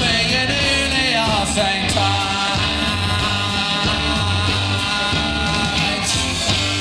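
Live rock band playing the closing bars of a song, with drums keeping a steady beat on the cymbals under bass and electric guitars.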